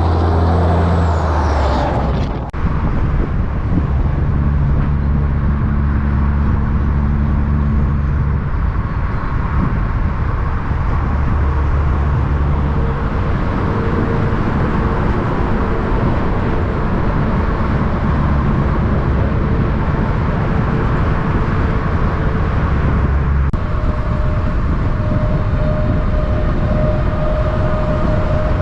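Semi-truck diesel engine running with a steady low drone whose pitch shifts a little now and then, cut off abruptly and resumed about two and a half seconds in and again near the end.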